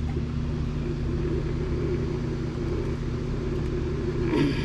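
Steady low mechanical drone, a constant hum of several low tones, with a brief voice-like sound near the end.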